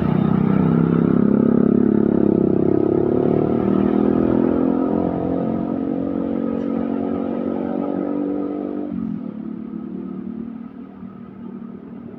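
Diesel truck engine passing close, running with a slowly falling pitch; it drops off about nine seconds in and fades away.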